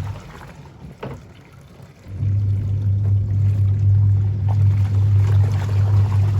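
A steady low electric hum, like a running motor, with water running or pouring. The hum drops away for about two seconds near the start, with a single click about a second in, then comes back and holds steady.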